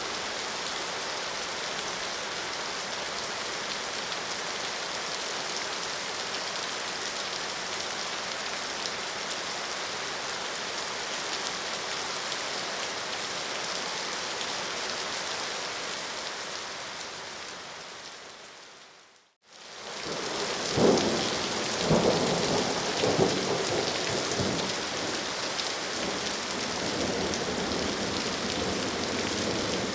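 Steady rain falling, fading out about two-thirds of the way through. Rain then fades back in with a few rumbles of thunder before settling into a steady downpour.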